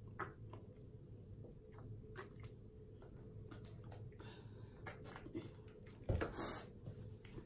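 A person eating close to the microphone: quiet chewing with small wet clicks of the mouth, and one louder brief noisy burst about six seconds in.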